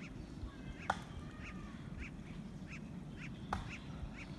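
Birds calling in a steady series of short, high notes, about two a second, with two sharp clicks, one about a second in and one after three and a half seconds.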